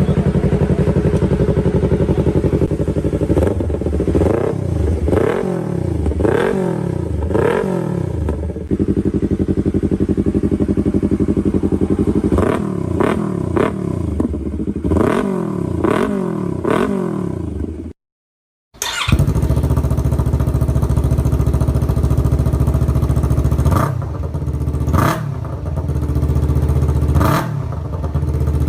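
Yamaha R3 parallel-twin engine through an aftermarket exhaust, idling and being blipped repeatedly with quick throttle revs in two bursts of several blips each. After a brief cut to silence, a second exhaust setup idles with a few more sharp revs near the end.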